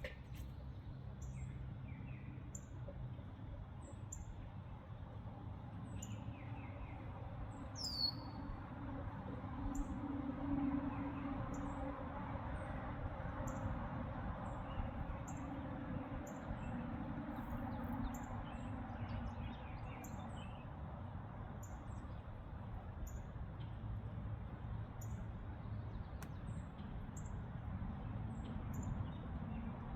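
Gasoline pouring from a safety can into a mini excavator's fuel tank, a steady low rushing that swells in the middle. A bird chirps high and regularly about once a second throughout.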